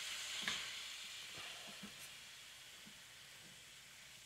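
Raw ground beef with onions and peppers sizzling quietly in a cast-iron skillet, the hiss strongest in the first half second and then settling, with a few soft taps and scrapes of a spatula breaking up the meat.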